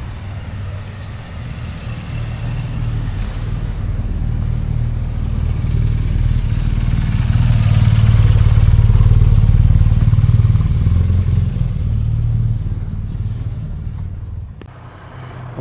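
Motorcycle engine running steadily, growing louder to a peak about eight to ten seconds in and then fading, with a rushing noise over it.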